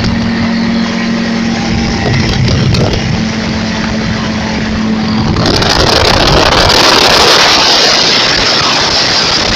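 A motor vehicle running with a steady low hum. About five seconds in, a louder rushing noise takes over.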